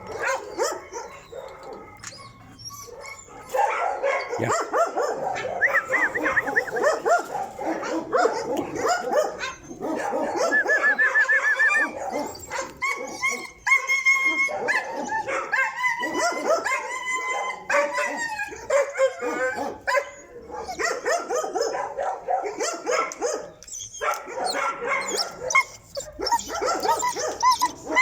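Stray street dogs barking, yelping and whining, several calls overlapping, loud from about three seconds in.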